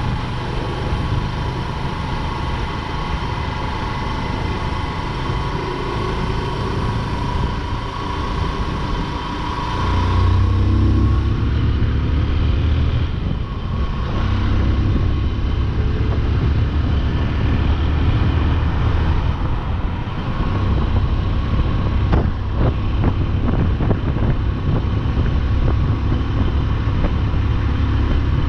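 Motorcycle running on the road, heard from the rider's seat: a steady engine and road rumble. About ten seconds in, the low rumble grows louder and a short rising engine note sounds as the bike picks up speed.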